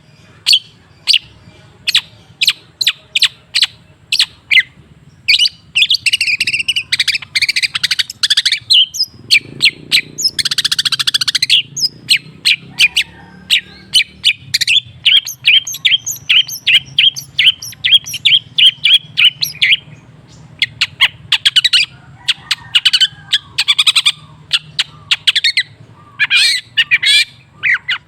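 Long-tailed shrike (cendet) calling: a series of sharp, clipped notes repeated a few times a second, broken by harsh, scratchy chattering bursts, with a fast, even run of notes in the middle. A faint steady low hum runs underneath.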